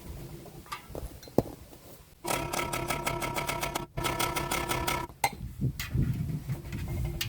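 A power tool rattling rapidly, about nine strokes a second, in two runs, one of about a second and a half and one of about a second, with a short break between. A few single knocks come before it.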